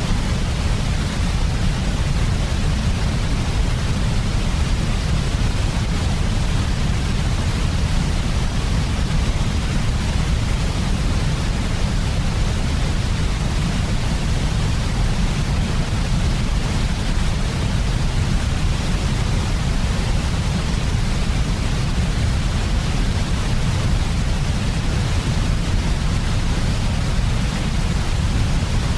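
Steady generated sleep noise, sold as white noise: an even, unbroken rush with most of its weight in a deep rumble and a softer hiss on top. It does not change.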